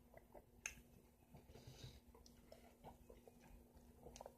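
Very quiet, faint chewing and small wet mouth clicks from eating soft, juicy yellow honeydew melon, with one sharper click less than a second in. A faint steady hum runs underneath.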